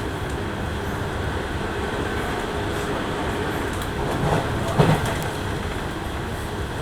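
Interior running sound of a JR West 103 series electric train: a steady rumble of wheels on rail and traction motors. A brief louder sound rises over it about five seconds in.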